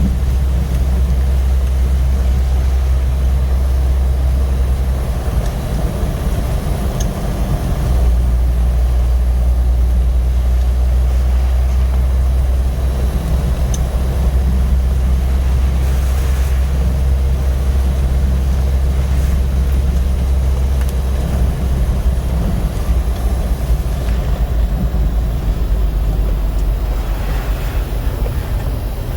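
Steady low engine and road rumble of a Jeep heard from inside its cabin while driving.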